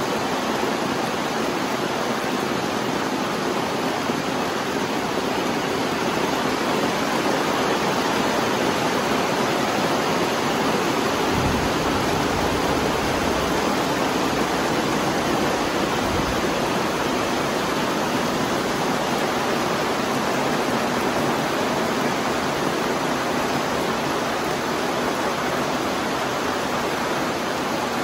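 Steady rain falling, an even, unbroken hiss. A low rumble swells briefly about twelve seconds in and again around sixteen seconds.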